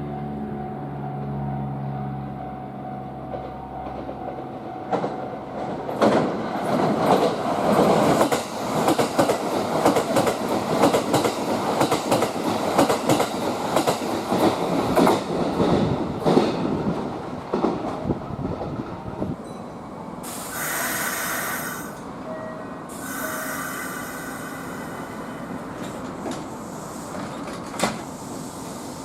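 A Kintetsu limited express electric train passes through the station at speed. Its wheels clatter over the rail joints for about thirteen seconds, then it fades away. Two brief high-pitched sounds follow near the end.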